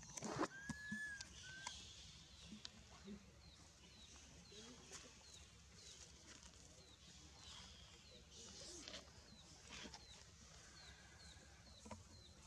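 Faint outdoor ambience: a small bird repeats a short high chirp about twice a second. About half a second in comes a single whistled call that rises and then holds.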